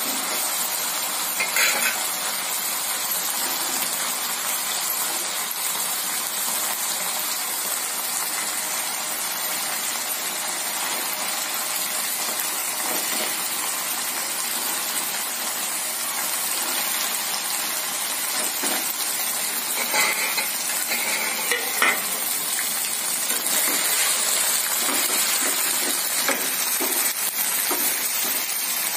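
Stuffed brinjals frying in hot oil with masala paste in a kadai, a steady sizzle, with a few short clinks of a steel spoon against the pan about two seconds in and again around twenty seconds in.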